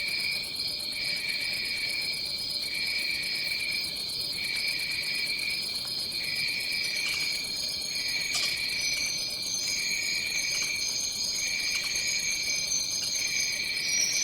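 Chorus of tropical forest insects trilling steadily at a high pitch, with a lower trill that pulses on and off about every second and a half. A higher-pitched insect call joins about halfway through.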